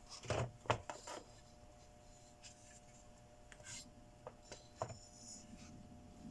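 Small hard objects being handled on a workbench: a quick run of clicks and knocks in the first second, scraping and rubbing, then a couple more knocks near the end, over a faint steady hum.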